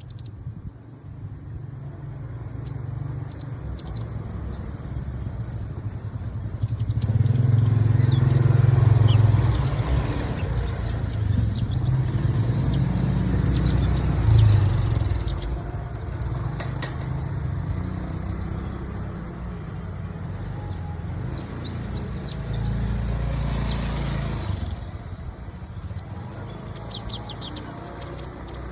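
A kolibri ninja sunbird singing: quick, high chirps and short trills, over a strong low rumble that swells in about seven seconds in and dies away about twenty-five seconds in.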